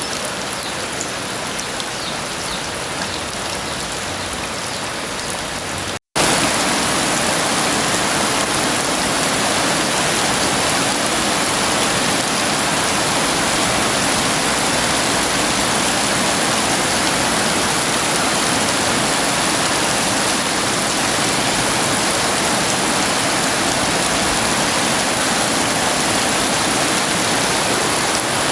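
Heavy rain falling steadily. It cuts out for an instant about six seconds in, then comes back louder and denser.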